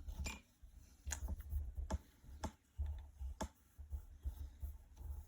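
Drawing tool on paper: a few sharp taps and short strokes at irregular intervals, over low thuds on the drawing surface.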